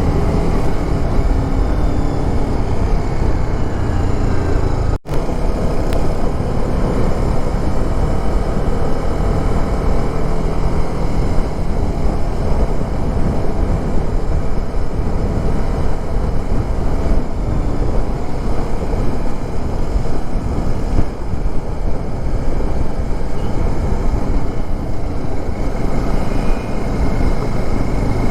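Motorcycle on the move: wind rushing over the camera microphone with the engine running underneath, steady and loud, with a brief break about five seconds in.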